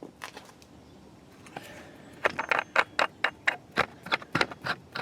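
Rapid run of sharp taps, about three to four a second, starting about two seconds in, as the rear axle shaft is worked inward to free its C-clip.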